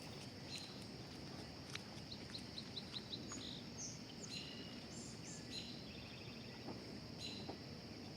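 Quiet outdoor background: scattered bird chirps, including a quick run of rapid chirps a couple of seconds in, over a steady high-pitched hum.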